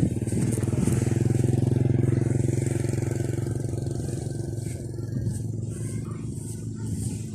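A small engine running steadily, loudest about one to three seconds in, then slowly fading as it moves away.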